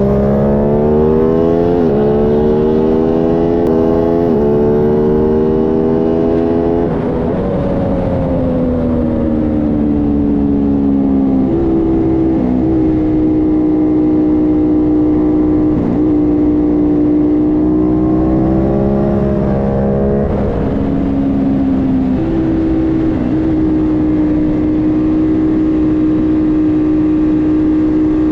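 Aprilia Tuono 660's parallel-twin engine at high revs on track. It climbs with several quick upshifts in the first few seconds, winds down from about seven seconds in, then runs at a fairly steady pitch with a few brief gear-change breaks.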